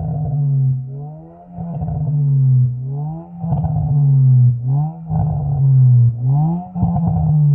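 Honda Brio's exhaust, fitted with a resonator and an HKS Hi-Power muffler, as the engine is revved in repeated throttle blips: the pitch climbs and drops back about every second and a half.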